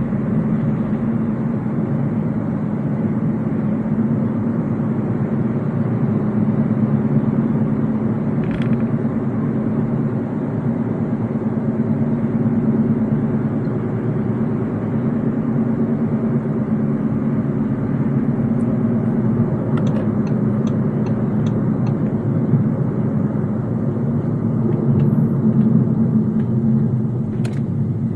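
MG ZS SUV driving along, its engine and tyre road noise making a steady low rumble that holds throughout. A short run of faint light ticks comes a little after the middle.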